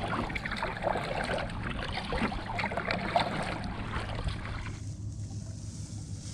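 Water splashing and sloshing around a kayak as it is paddled, over a steady low wind rumble; the splashing dies away about five seconds in.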